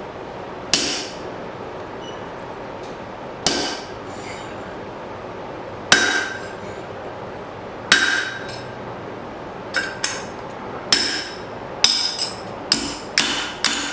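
Blacksmith's hammer driving a punch through a hot 3/16-inch steel bracket plate on the anvil, with ringing strikes. There are four heavy blows about two seconds apart, then a quicker run of lighter blows near the end, over a steady hiss.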